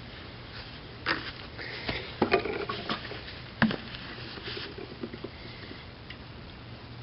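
Handling noises: a few sharp knocks and clatters with rustling, bunched about a second to four and a half seconds in, over a faint steady low hum. No engine running.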